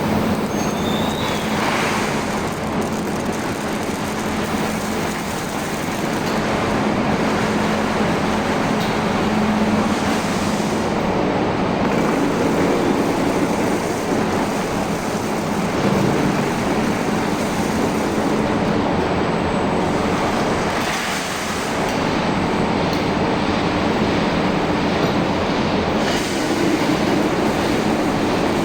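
Industrial chemical coating machine running: a steady, loud mechanical noise with a low hum.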